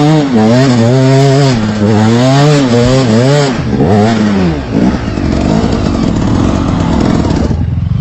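Trail motorcycle engine revving up and down over and over, then dropping to a lower, rougher running about five seconds in.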